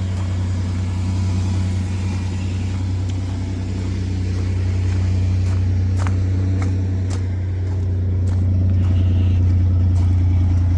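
Chevy S10's 4.3 L Vortec V6, fitted with Holley Sniper throttle-body fuel injection, idling steadily shortly after a cold start, with a few light clicks about six and seven seconds in.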